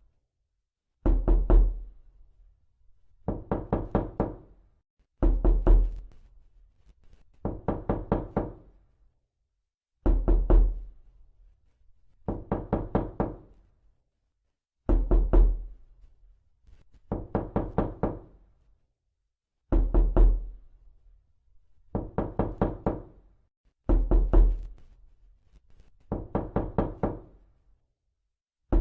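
Knocking in quick bursts: about twelve bursts of six to nine rapid knocks, each burst lasting about a second, repeating roughly every two seconds with short silences between.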